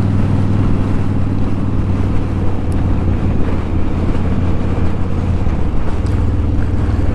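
Yamaha V-Star 1100 Classic's air-cooled V-twin engine running steadily at riding speed, heard from the rider's seat. Its note drops slightly about five and a half seconds in.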